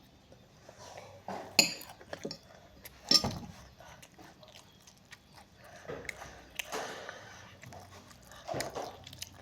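Close-up eating sounds of chicken being bitten and chewed, with two sharp clattering knocks about one and a half and three seconds in.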